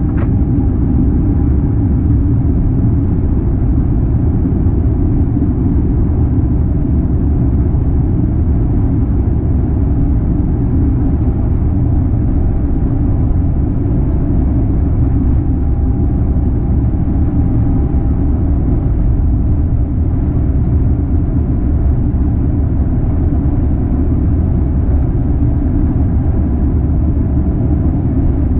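Airbus A350's Rolls-Royce Trent XWB engines and airframe heard inside the passenger cabin: a loud, steady low rumble with a faint steady whine above it.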